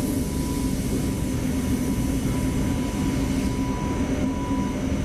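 Jet aircraft engines running steadily: a constant rushing noise with a low hum and a thin, steady high whine.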